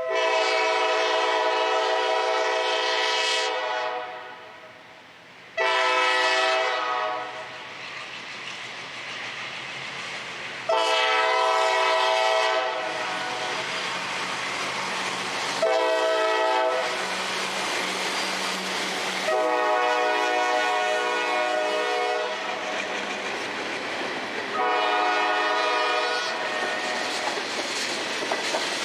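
Diesel locomotive air horn sounding again and again in a mix of long blasts of about three seconds and short blasts of about a second, with the rumble of the moving train between blasts.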